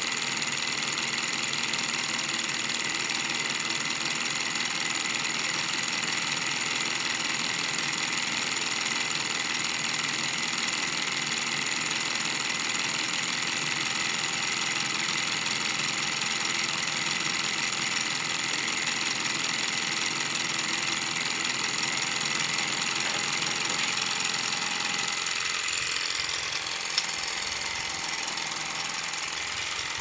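Small alpha-type Stirling engine running steadily, a fast, even mechanical clatter of its pistons and flywheel. About 25 seconds in its lower part thins out, with a single sharp click shortly after.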